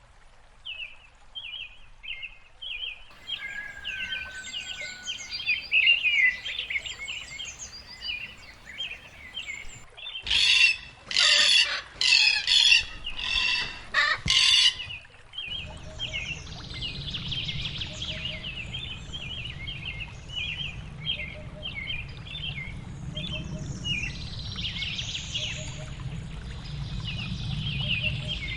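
Songbirds chirping and singing in many short, rapidly repeated notes. About a third of the way in, several loud harsh bird calls follow one another over five seconds. In the second half a low steady rush sits under the chirping.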